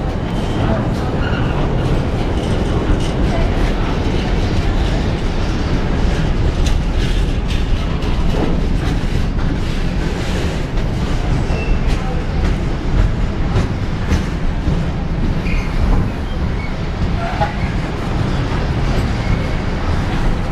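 Container freight train rolling past at close range: a steady, loud rumble of wagons, with the clatter of wheels over rail joints throughout.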